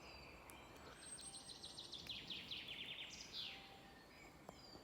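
A songbird singing one rapid, descending trill of about two and a half seconds, beginning about a second in, with a few faint high chirps from other birds over a quiet background of outdoor noise.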